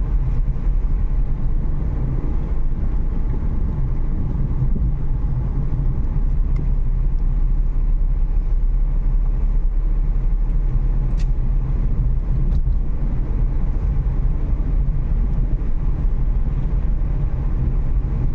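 Steady road and engine rumble inside a moving Renault Kiger, driving at an even pace.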